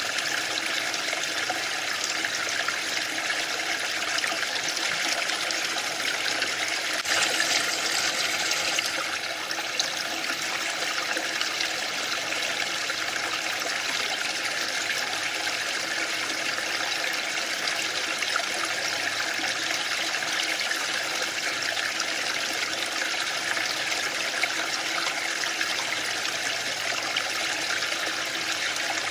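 Waterfall: a steady rush of falling water, a little louder for a couple of seconds about seven seconds in.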